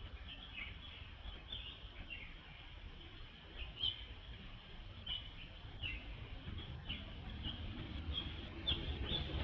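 Small birds chirping: a dozen or so short, high chirps at irregular intervals over a low, steady outdoor rumble.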